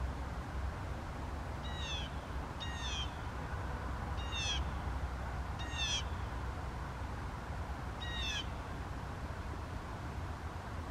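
An unseen bird calling five times, short high-pitched slurred notes spaced one to two and a half seconds apart, over a steady low rumble.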